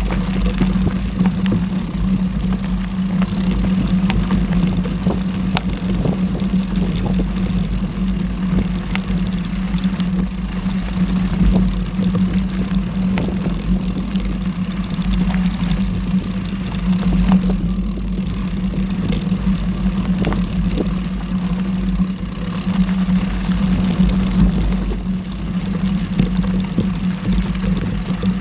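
Mountain bike riding along a dirt forest trail: tyres rolling, with frequent small knocks and rattles from the bike over a steady low hum and rumble.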